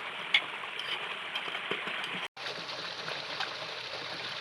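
Steady rushing of a mountain stream, with a few faint ticks, broken by a split-second gap a little past halfway.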